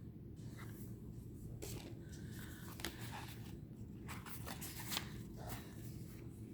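Faint rustling and light scraping of tarot cards being handled and slid, with a few soft taps.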